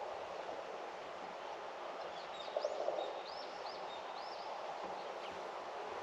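Steady outdoor rustling of leaves in a cherry tree, with a small bird chirping a quick series of short rising-and-falling calls from about two to four and a half seconds in. A brief flurry of rapid flutters near the middle is the loudest moment.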